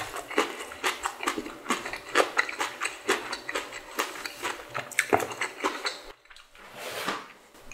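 Close-miked mouth sounds of a person eating spicy ramen with rice: wet chewing and smacking, quick sharp clicks several times a second, breaking off about six seconds in, then a short rushing breath or slurp near the end.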